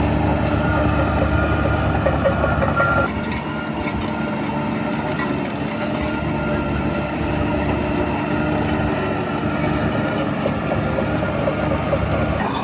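Heavy diesel engine of earthmoving machinery running steadily, its note dropping and easing off a little about three seconds in.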